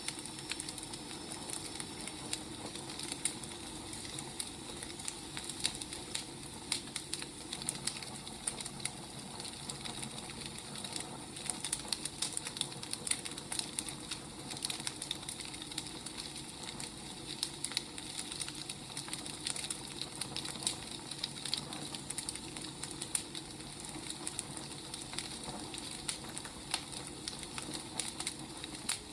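Firewood burning with a steady hiss and frequent, irregular crackles and pops.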